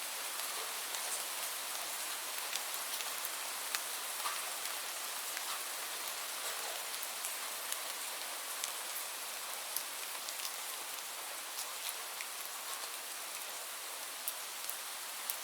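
Steady rainfall, a constant hiss of rain with scattered sharp drip ticks.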